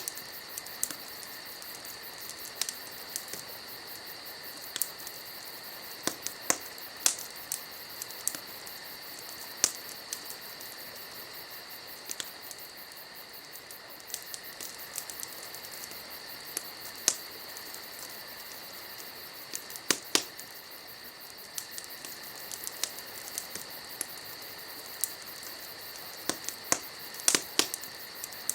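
Wood campfire crackling, with irregular sharp pops scattered throughout and a few clusters of louder snaps near the start, about 20 seconds in and near the end. Under it, a steady high chorus of night insects trills without pause.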